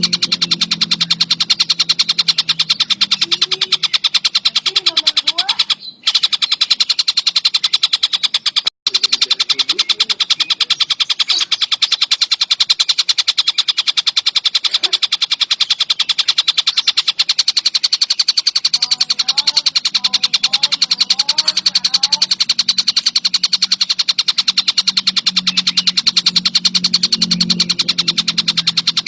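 Tengkek buto kingfisher calling in a very fast, unbroken chatter of sharp repeated notes. This is a masteran recording for training songbirds, with a low hum underneath and two brief dropouts, near 6 s and 9 s.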